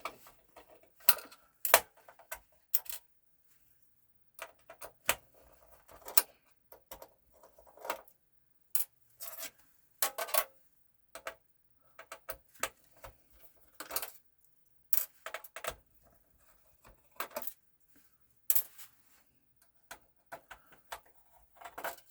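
Irregular clicks, taps and light clatters of small metal and plastic parts and a screwdriver being handled while a PlayStation 4 Pro console is taken apart.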